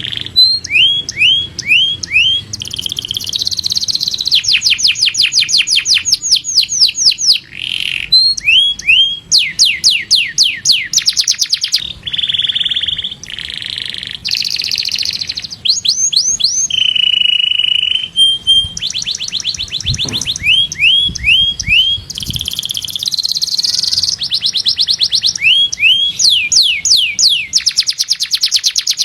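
Domestic canary singing a long, loud song of fast trills of repeated down-slurred notes, alternating with short held whistled notes and changing phrase every second or two.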